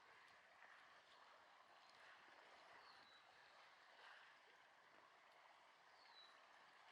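Very faint, steady outdoor wash of noise, with two short, high chirps falling in pitch about three seconds apart.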